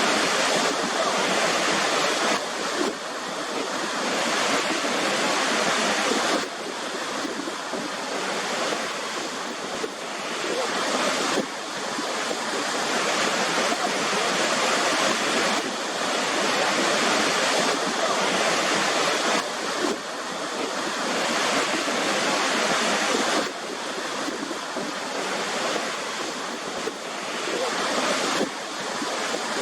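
Waterfall: a steady rush of falling water, with the level stepping up or down abruptly every four to five seconds.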